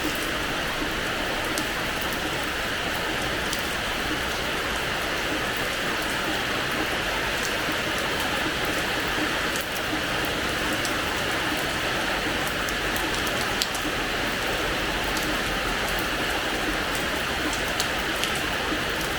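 Steady rain falling on a hard terrace floor, with individual drops ticking here and there over the even hiss.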